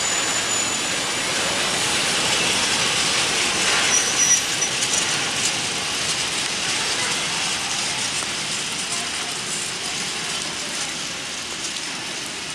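A freight train of open gondola wagons rolling past, with a dense clattering rattle of wheels and running gear and a few louder clanks about four seconds in. The sound fades gradually as the end of the train draws away.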